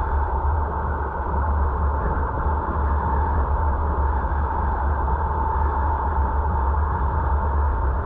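Steady road and engine noise of a car driving, heard from inside the cabin: a deep rumble with a constant mid-pitched hum over it.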